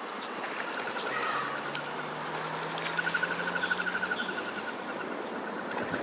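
A bird trilling a rapid run of repeated high notes, twice, over steady wind noise on the microphone. A faint low hum runs under the middle of it.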